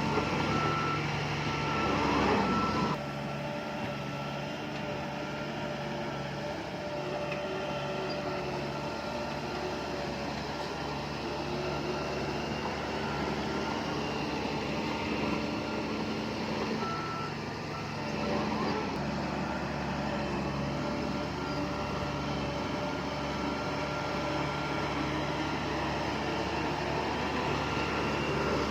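Heavy diesel earthmoving machinery, bulldozers and dump trucks, running steadily. A reversing alarm beeps during the first few seconds and again briefly a little past halfway.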